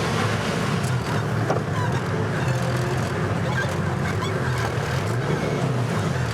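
A vehicle driving: a steady low engine drone with road noise, its pitch wavering slightly.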